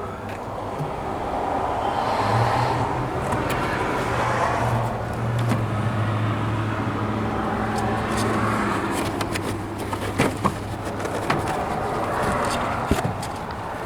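A motor vehicle's engine running with a steady low hum that comes in about two seconds in and fades away after about ten seconds, with a few sharp clicks near the end.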